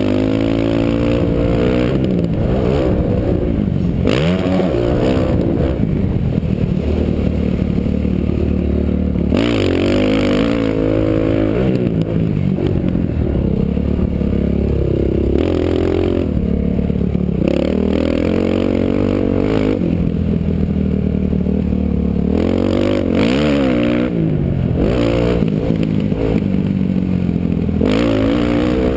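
Dirt bike engine heard from the rider's helmet, revving up and falling back over and over as it works around a motocross track, with bursts of wind rushing over the helmet microphone.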